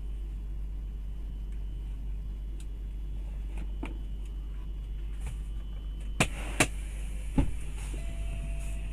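Steady low rumble of a car driving, with three sharp knocks about six to seven and a half seconds in, and a faint steady tone near the end.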